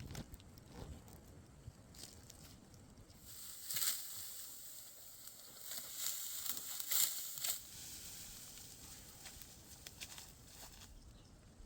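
Dry wheat stalks rustling and crackling, a dense hiss of small crackles that swells between about three and seven seconds in, loudest twice, then eases off.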